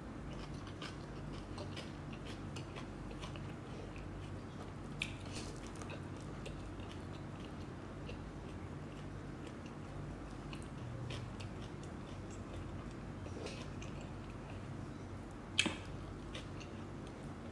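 Close-miked chewing of rice and pork, with frequent small wet mouth clicks over a steady low hum. There is a sharper click about five seconds in and a louder one near the end.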